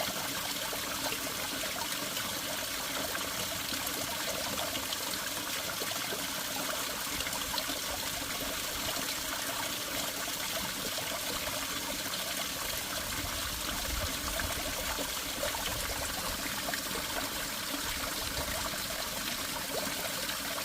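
Water of a small forest spring trickling and running steadily. A brief low rumble comes in a little past the middle.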